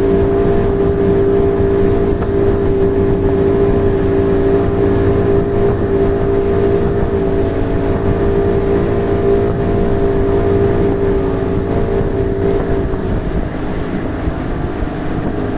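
Motorboat engine running steadily at one constant pitch, easing off slightly a couple of seconds before the end.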